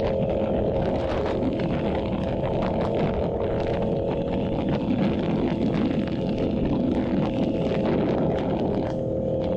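Yamaha YZF-R7's 689 cc parallel-twin engine running through an aftermarket SC-Project exhaust while riding at a fairly steady speed. The engine note holds an even pitch, with a slight change near the end.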